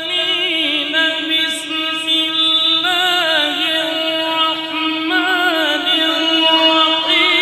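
A man's voice chanting a long, ornamented melodic line in the style of Quranic recitation, with wavering turns over a steady held drone note.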